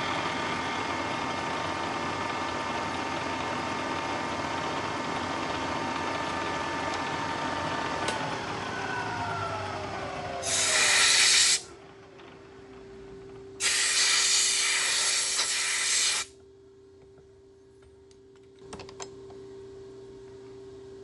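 Milling machine spindle running with a steady whine, then switched off about 8 s in, its whine falling as it winds down. Then two loud bursts of hissing air, the second about two and a half seconds long, leaving a quiet steady hum.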